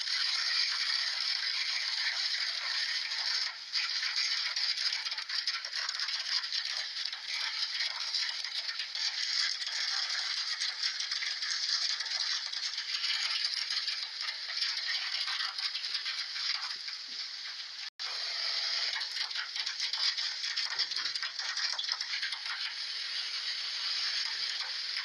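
A brick rattling and clattering inside the drum of a running top-loading washing machine, a continuous hard banging racket, with a short break about 18 seconds in.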